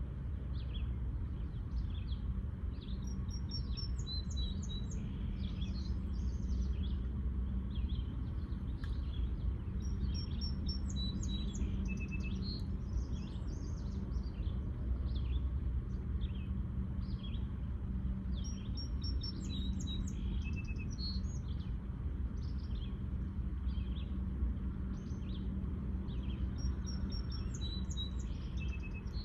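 Songbirds chirping and singing over and over, with short high calls and trills. Underneath runs a steady low hum.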